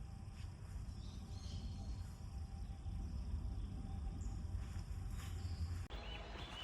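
Outdoor ambience: a steady low rumble with a thin, constant high-pitched drone like insects, and a few faint ticks. The sound changes abruptly about six seconds in.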